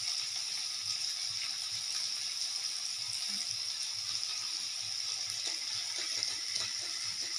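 Onions and spices frying in oil in a steel karahi, a steady sizzle, with a few faint clinks of a spoon against the spice bowls in the second half.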